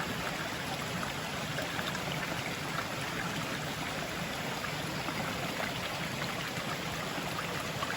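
Steady rush of a river running, with rain falling.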